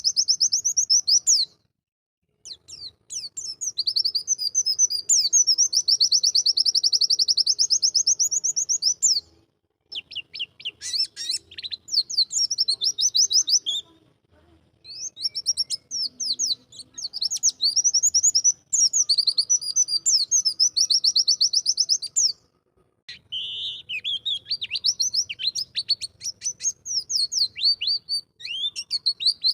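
White-eye (pleci) singing long, fast, high-pitched trills in several bouts separated by short pauses.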